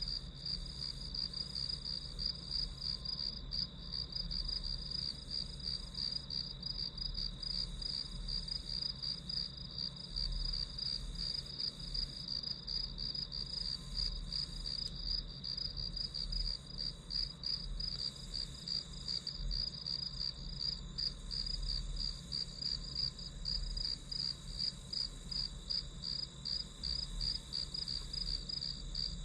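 Crickets chirping steadily in fast, even pulses. A faint low hum runs underneath.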